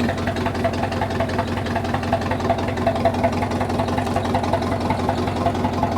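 Old bulldozer engine idling steadily with an even, rapid pulse, shortly after a start.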